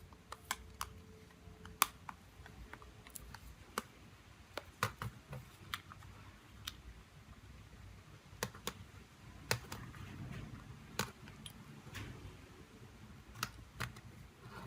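Small sharp clicks and taps, irregular and spaced out, of hand tools against a Samsung Galaxy J2 Prime smartphone's plastic and metal parts as it is worked on, over a faint low hum.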